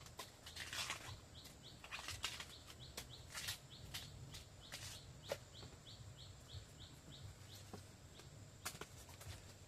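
Irregular rustling and crackling, with a series of short high chirps repeating about three times a second for several seconds.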